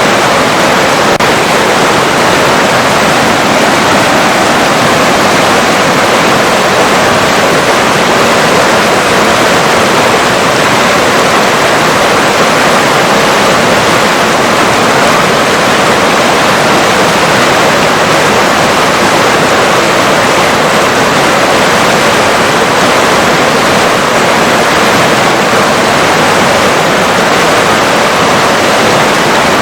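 River water rushing, a steady, dense, even noise with no breaks.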